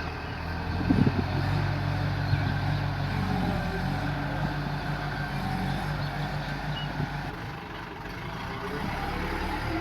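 Bull backhoe loader's diesel engine running steadily as the machine works, with a few sharp clanks about a second in.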